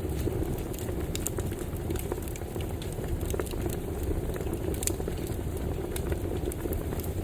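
Campfire burning: a steady low rush of flames with frequent, irregular small crackles and pops.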